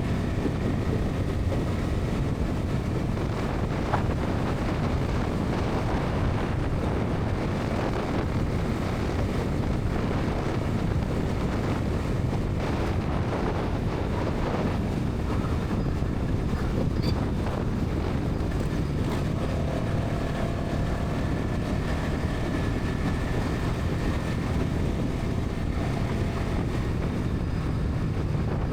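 Bajaj Pulsar NS 200's single-cylinder engine and exhaust running steadily at highway speed, mixed with heavy wind rushing over the microphone.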